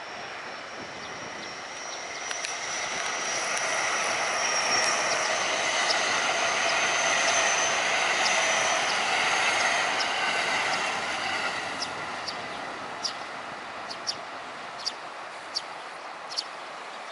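Local commuter electric train of JR West passing over a railway bridge. The rumble of wheels on rail builds, peaks about halfway through, then fades as the train moves away, with a steady high whine on top. A few short sharp ticks come near the end.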